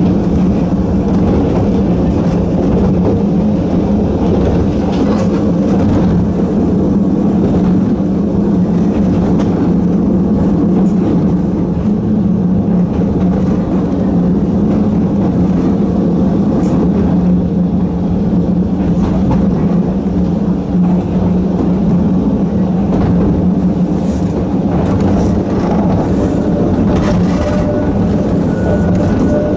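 Narrow-gauge electric train running at a steady speed, its nose-suspended traction motors and gearing giving a continuous drone of unchanging pitch.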